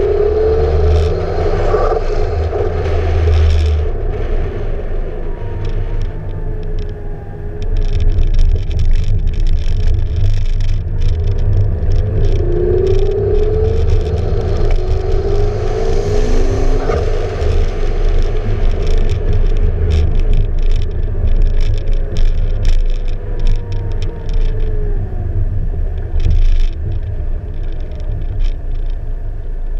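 McLaren MP4-12C Spider's twin-turbo V8 engine running as the car drives, its note rising a few times as it pulls through the gears. Heavy wind rumble on the outside-mounted GoPro microphone.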